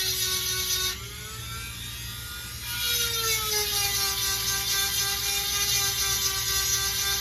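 Dremel rotary tool with a 7/32-inch grinding stone sharpening saw-chain cutters. The motor whines steadily, with a grinding hiss while the stone is on a tooth. The grinding stops about a second in and the whine climbs as the motor runs free. It bites again about three seconds in, the pitch sagging under load.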